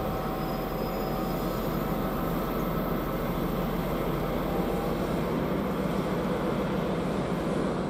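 A passenger train moving through the station, a steady rolling rumble with a faint hum, even in level throughout.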